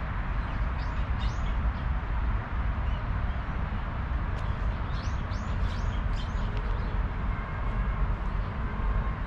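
A bird calling in short runs of quick chirps, once about a second in and again around five to six seconds, over a steady low rumble and hiss.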